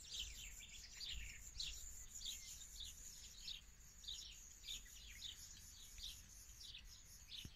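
Faint songbirds chirping outdoors, a run of short downward-sweeping calls repeating a couple of times a second over a thin, steady high tone.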